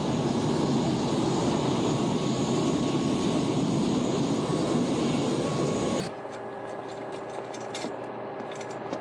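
Airliner engine noise, loud and steady, that cuts off abruptly about six seconds in, leaving a quieter background with scattered small clicks.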